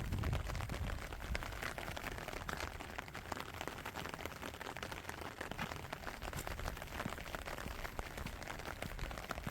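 Steady rain falling, heard as a dense run of small, sharp drop ticks, with a brief low rumble just at the start.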